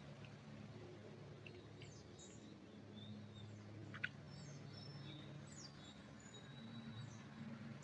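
Faint birdsong: scattered short high chirps and whistles from small birds, with one sharp brief chirp about four seconds in, over a steady low hum.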